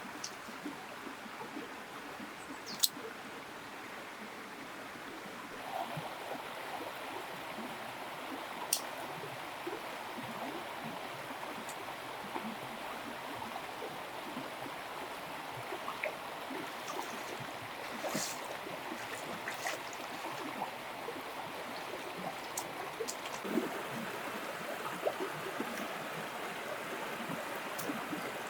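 Water running or trickling steadily, with sharp clicks and light knocks here and there; the loudest is a single sharp click about three seconds in.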